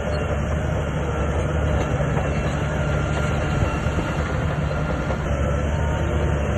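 SHANTUI bulldozer working: a steady diesel engine rumble with the clanking rattle of its steel tracks, running on evenly.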